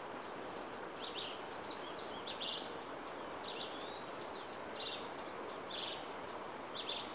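Wild birds calling: many quick high chirps and short downward-sliding whistles, repeated over a steady background hiss.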